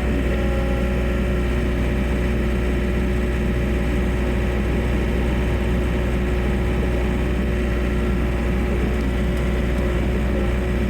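Skid steer loader's engine running at a steady speed.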